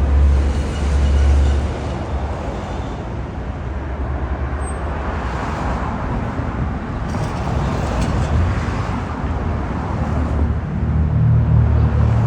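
Low engine rumble with a hissing wash of noise over it, swelling at the start and again near the end.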